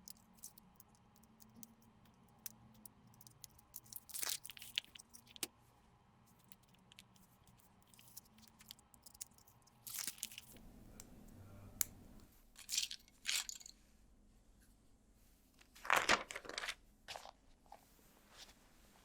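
LEGO Technic pieces being handled and pressed together: a scatter of small plastic clicks and ticks, with a few longer scraping, crunching bursts of about half a second, the loudest near the end.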